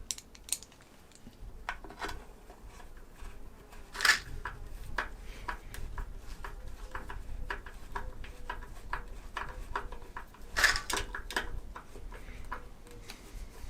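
Light knocks and clicks of hard objects being handled on a workbench, irregular and scattered, with a louder cluster about four seconds in and again near the ten-second mark.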